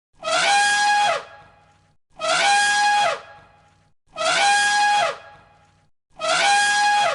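A loud, harsh, trumpet-like animal call with a held tone, sounded four times in an identical pattern about every two seconds.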